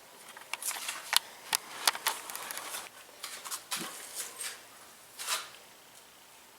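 Oil being poured into a coilover shock body: irregular small pops, clicks and gurgles of air bubbling out as the oil fills the shock and flows down into its reservoir, with a short hiss a little after five seconds.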